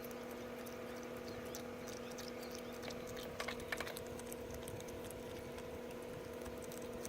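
Soft scattered clicks and rustles of a young opossum foraging and eating, with a short cluster of louder clicks a little past the middle, over a steady hum.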